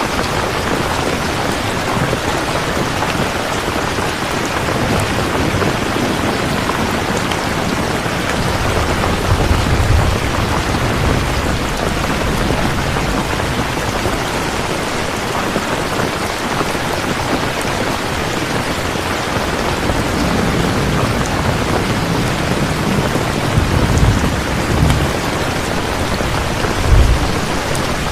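Steady, heavy rain falling, with low rumbles of distant thunder swelling about ten seconds in and again several times in the last third.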